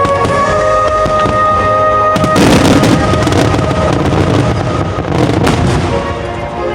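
Fireworks bursting and crackling in a dense barrage, with music playing underneath. The crackle thickens sharply a little over two seconds in and eases off near the end.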